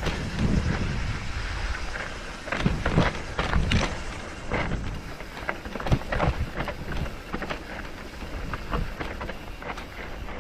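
Rattling and knocking of a vehicle jolting over a rough mountain track, with irregular sharp clatters and wind rumbling on the microphone. The knocks come thickest in the first few seconds.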